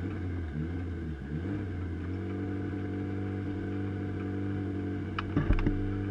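Race car engine idling, uneven at first and then settling to a steady idle about two seconds in. A few knocks come near the end.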